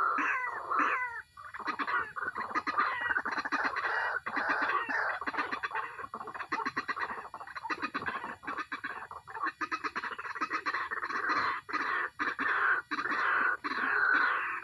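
White-breasted waterhen calling: a fast, unbroken run of repeated notes, with a short pause about a second in.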